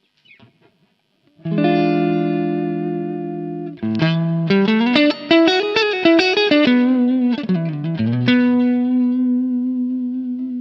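Soloking MS-1 Custom HSS electric guitar played through an overdriven, effected tone: a strummed chord left to ring, then a quick run of single notes, ending on a long sustained note.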